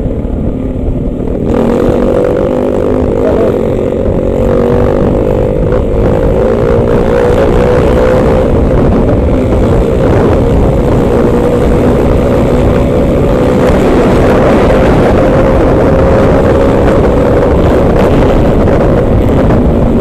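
Motorcycle engine running at a steady pitch while riding, under heavy wind rumble on the microphone; it gets louder about a second and a half in and then holds steady.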